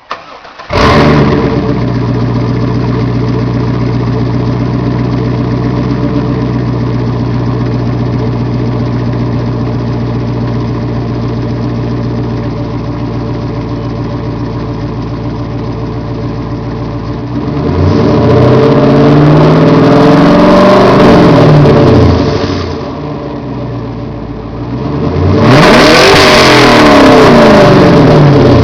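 A 2002 Chevrolet Camaro Z28's 5.7-litre LS1 V8, fitted with a Loudmouth exhaust, starts up about a second in and settles into a steady idle. After about 17 seconds it is revved up and down in quick blips for a few seconds, drops back to idle, and is revved again near the end.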